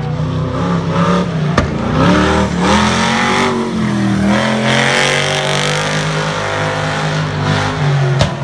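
An off-road truck engine revving hard, its pitch climbing and falling again and again as it works through an obstacle course, with a sharp knock about a second and a half in and another near the end.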